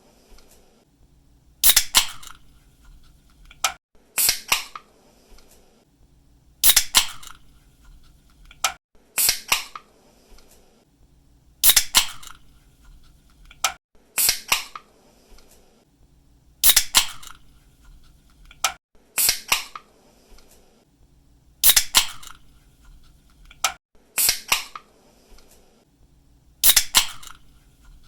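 Aluminium drink cans cracked open by the pull tab, each a sharp snap followed by a short fizzing hiss, repeated over and over about every two and a half seconds.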